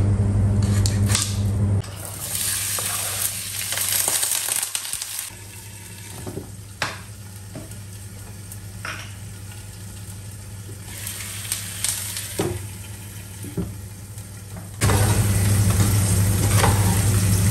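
Knife slicing spiny gourd on a plastic chopping board, with a few quick cuts at the start, then food sizzling in pans on the stove with a few light knocks. Near the end a wooden spatula stirs chicken sukka in a steel pot. A steady low hum runs for the first two seconds and again for the last few.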